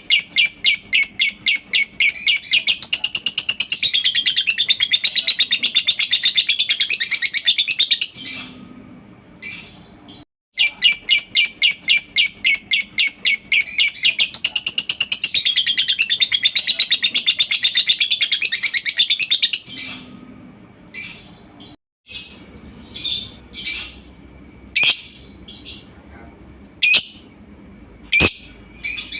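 Lovebird ngekek: a long, rapid chattering trill of high notes that begins as separate chirps and quickens into a continuous rattle of about eight seconds. After a short break a second run of about nine seconds follows, and then only scattered single chirps.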